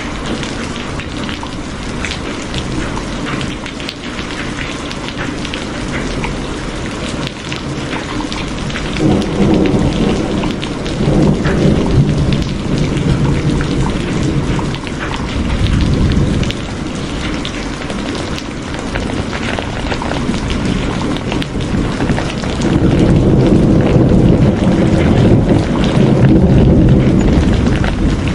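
Steady heavy rain with a fine pattering crackle, and rolling thunder that swells low and long twice: about a third of the way in, and again near the end.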